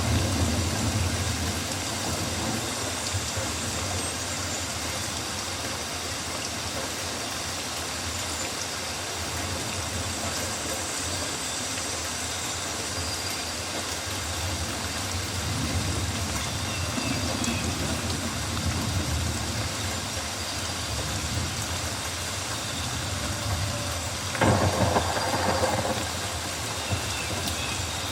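Rainforest ambience of steady rain falling as an even hiss, over a low rumble that swells now and then. A short, louder burst comes near the end.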